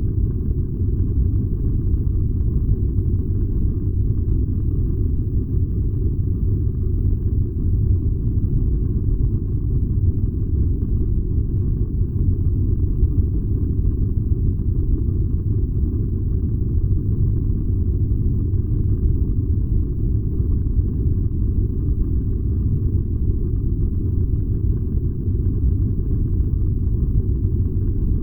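A furnace burning with a steady, low rumble that does not change.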